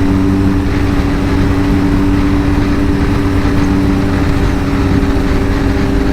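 BMW R1250 GS Adventure's boxer-twin engine running at a steady pitch under wind and road noise while riding.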